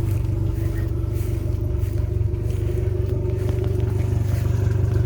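An engine running at a steady idle, a constant low drone.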